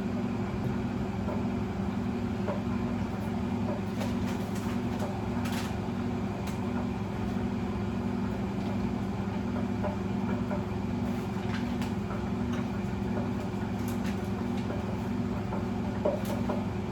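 Steady motor hum of a running kitchen appliance, with a regular pulse about twice a second and a few faint clicks scattered through it.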